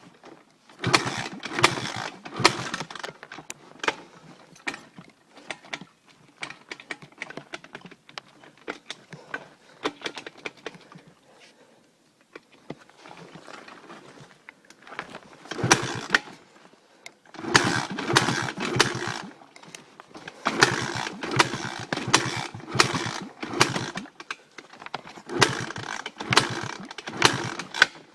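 Pit bike engine revving in irregular bursts, rising and dropping again and again, with a quieter stretch midway.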